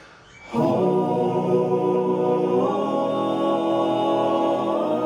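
Men's voices singing a cappella in close harmony. After a brief breath pause they come in about half a second in and hold a long chord, which moves to a new chord about halfway through and again near the end.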